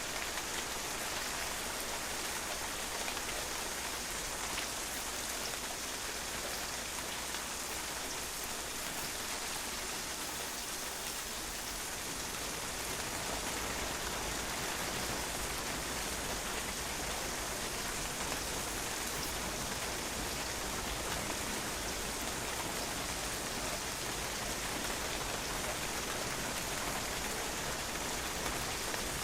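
Steady rain falling and drops splashing on a patio, an even pattering hiss.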